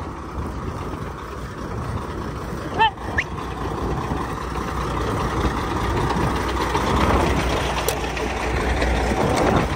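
Vehicle engine running steadily, slowly getting louder as it pulls. A short high-pitched chirp cuts in just before three seconds in.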